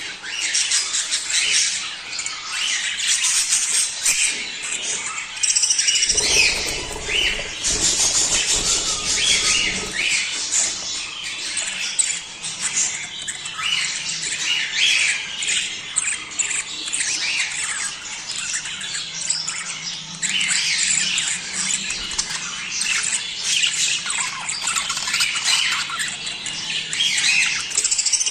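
A flock of budgerigars chattering and warbling continuously, in a dense mix of short chirps and squawks: the sound of breeding-condition budgies, played to stimulate mating. A low rumble runs underneath for about four seconds, starting around six seconds in.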